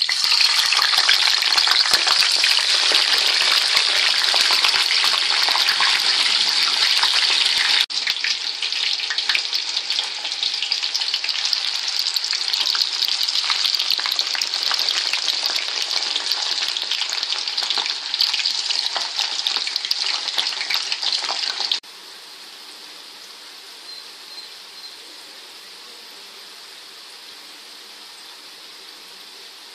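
Potato sticks deep-frying in hot oil in a pan, a loud steady sizzle. The sizzle drops abruptly in level twice, the second time to a much quieter sizzle about two-thirds of the way through.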